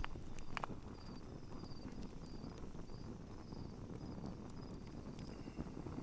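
Outdoor night ambience by a campfire: a steady low rumble with a couple of sharp clicks near the start, and a faint, high chirp repeating about two to three times a second, like a calling insect.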